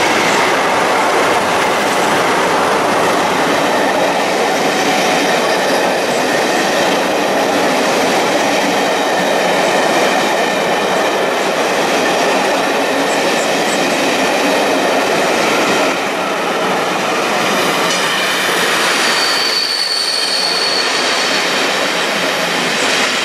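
Passenger coaches of a Class 47 diesel-hauled charter train running through the station at speed: steady loud wheel-on-rail noise. A brief high wheel squeal comes near the end.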